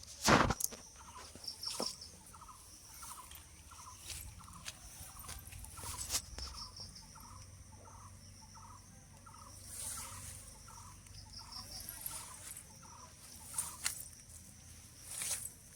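A bird calling a long series of short, evenly spaced notes, about three a second, stopping near the end, with higher chirps from other birds above it. A few sharp clicks cut in, the loudest near the start.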